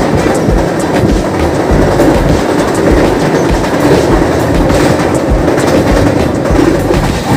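Express passenger train running, heard inside the coach: a steady rumble with the clatter of the wheels over the rail joints.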